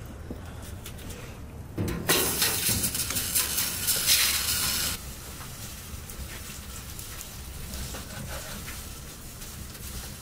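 Food sizzling in a hot pan: a loud hiss starts about two seconds in and cuts off sharply about three seconds later. Faint crackling follows over a low steady rumble.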